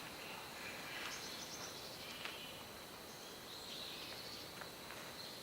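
Quiet outdoor background noise: a steady faint hiss with a few faint, high chirps.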